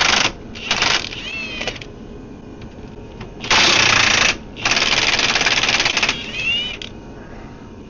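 Impact wrench hammering on bolts in four rattling bursts, the longest about a second and a half, loosening the bolts of a bar under the gearbox.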